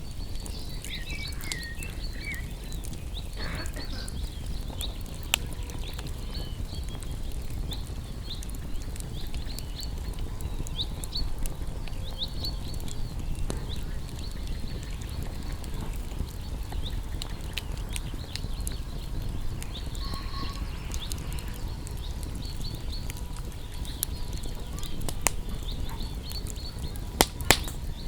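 Wood campfire crackling steadily over a low rumble of flames, with scattered sharp pops; two of the loudest pops come close together near the end.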